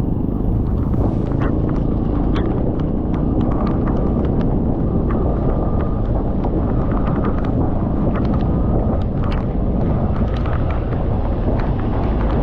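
Wind roaring over the microphone of a moving motorcycle in heavy rain, with many short sharp ticks of raindrops striking it. A faint steady whine rises and falls with the ride through the middle.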